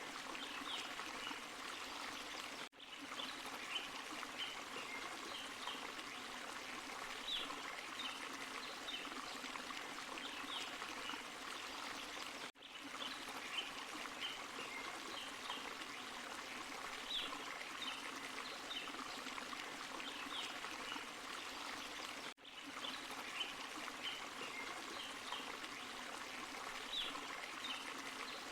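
Forest waterfall and stream running steadily: an even rush of water dotted with many short high-pitched ticks. The sound drops out briefly about every ten seconds.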